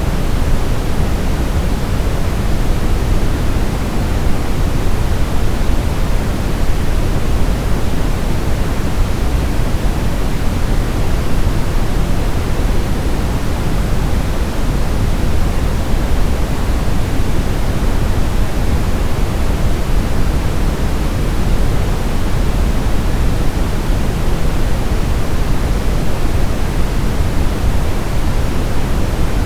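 Continuous sleep-aid noise: a steady, unchanging hiss with most of its weight in the low end, fading toward the highs.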